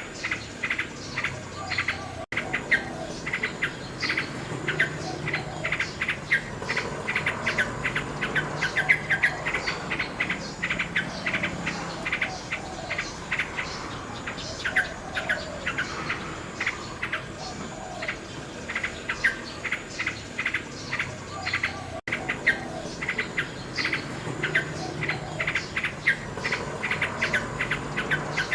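Nightingale singing: rapid runs of sharp, repeated notes, several a second, that go on throughout.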